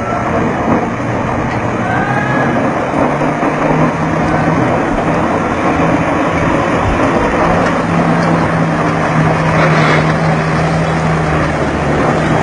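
BMW M5 engine held at a steady pitch under heavy load, its driven wheels spinning on loose dirt as it strains to tow a dump truck. The engine note is loudest a little past the middle.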